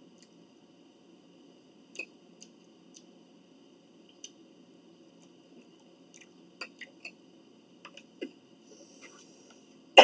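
Chewing food close to the microphone, with scattered small clicks and smacks, and one much louder knock at the very end.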